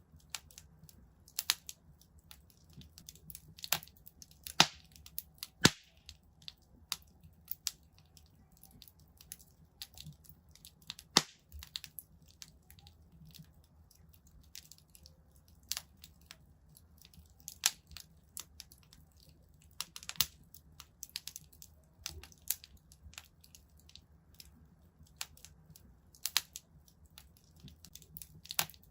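Wood fire crackling in a fireplace: irregular sharp pops and snaps of burning logs, a few louder pops standing out among the smaller crackles, over a faint low hum.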